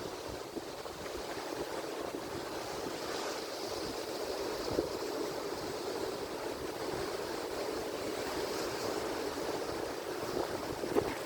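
Ocean surf: a steady wash of breaking waves, building a little through the middle and easing slightly near the end.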